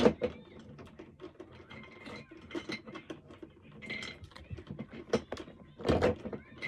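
Small plastic toy pieces being handled: scattered light clicks, taps and rattles, with a louder knock about six seconds in.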